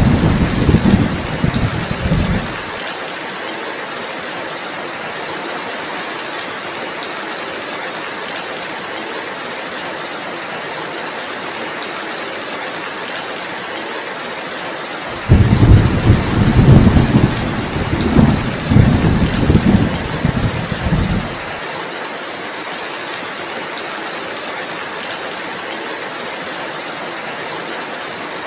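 Steady heavy rain with low thunder rumbling through the first couple of seconds and again for about six seconds from the middle; each rumble starts and stops suddenly.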